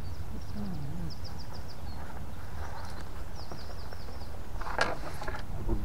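Small birds chirping in quick runs of short high notes, twice, over a steady low rumble, with a couple of sharp knocks near the end.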